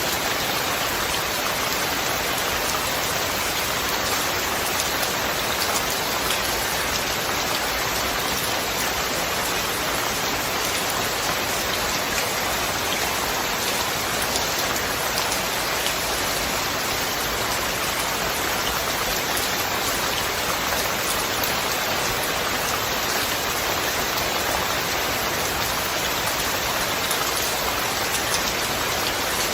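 Steady heavy rain falling, a dense even hiss with scattered drop patter and no thunder.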